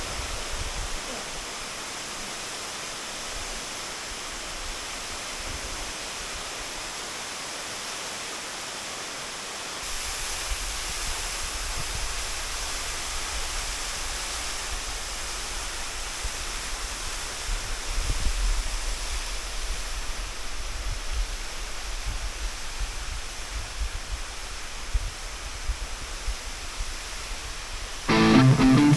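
Waterfall pouring into a pool, heard as a steady rushing noise that grows a little louder, with more low rumble, about a third of the way in. Guitar music starts just before the end.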